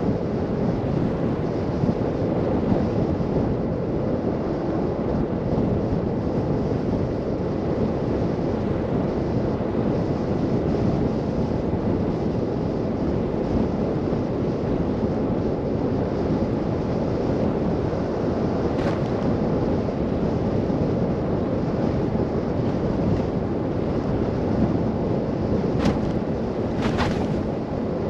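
Steady low rush of wind and driving noise from a car moving through a snow blizzard. Three short faint clicks sound, once in the middle and twice near the end.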